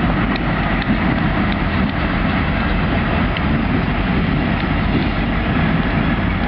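Diesel locomotive engine running steadily in a rail yard: a constant low rumble with a hiss above it.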